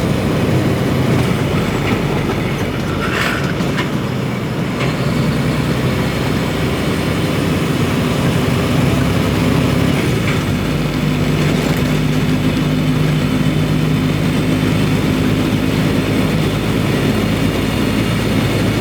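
Semi truck's diesel engine and road noise heard from inside the cab while driving: a steady low drone whose pitch shifts about ten seconds in.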